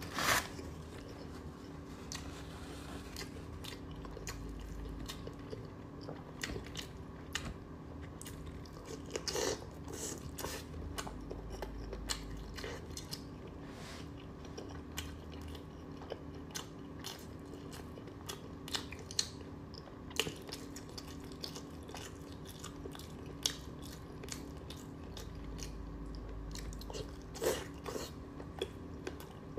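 Close-miked chewing of chicken giblets: wet, crunchy bites and many short clicks as the firm pieces are chewed.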